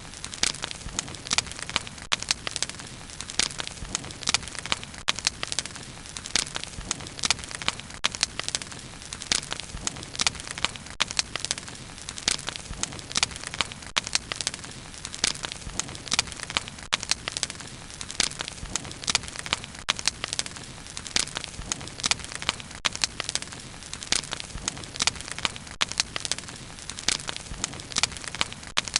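A wood campfire burning, with dense, irregular crackles and pops, several a second, over a steady low rush of flame.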